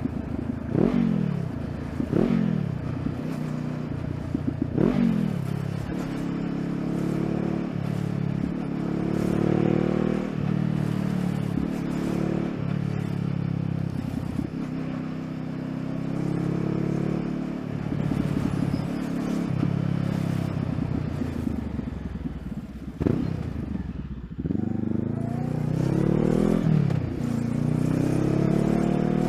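Honda CBR500R's parallel-twin engine pulling through the gears: its pitch climbs and drops at each shift several times in the first few seconds and again near the end, and it runs more steadily in between.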